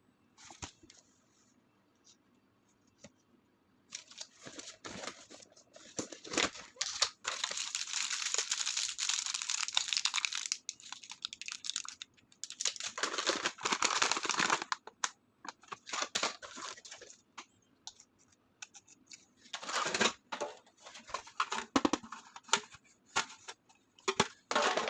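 Packaging of a self-heating hot pot being torn open and crinkled, in irregular rustling bursts with a short lull a little past halfway.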